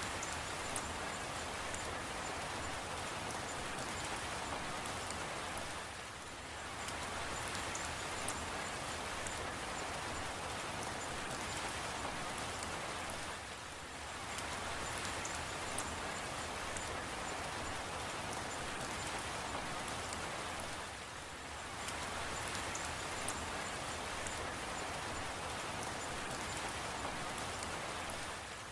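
Steady rain falling on a surface, with scattered sharp drop ticks. The rain softens briefly about every seven and a half seconds.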